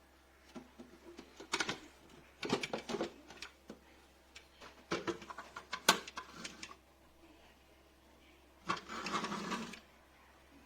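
Scattered mechanical clicks and clattering knocks, then a rattling mechanical whirr lasting about a second near the end.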